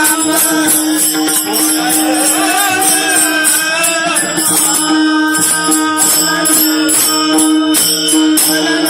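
Devotional bhajan music: a steady held drone under evenly repeating jingling percussion, with a wavering melody line rising and falling in the middle.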